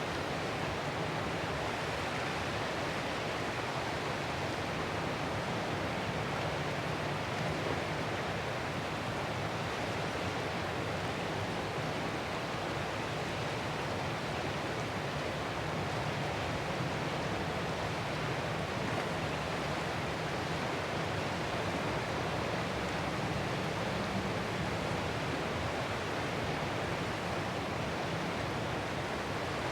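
Ocean surf as an even, steady rush of noise, with no separate wave breaks standing out.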